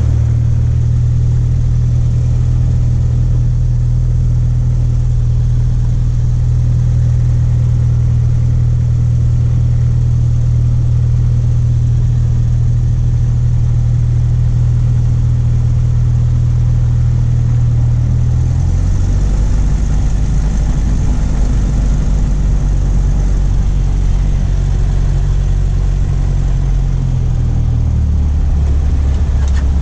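Cessna 152's four-cylinder Lycoming piston engine and propeller running steadily, the engine speed dropping a step about two-thirds of the way through and again near the end.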